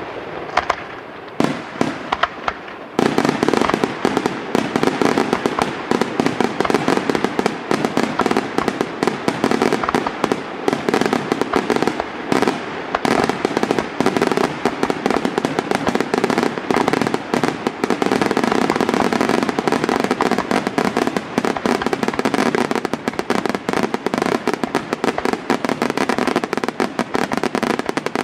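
Aerial fireworks display: a few separate bangs, then from about three seconds in a dense, continuous barrage of rapid shell bursts.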